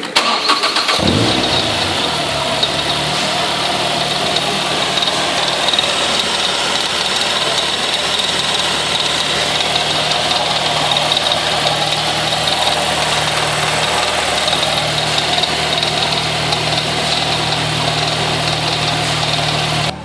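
Ford Fiesta ST's 2.0-litre 16-valve four-cylinder petrol engine cranked on the starter, catching about a second in, then idling steadily.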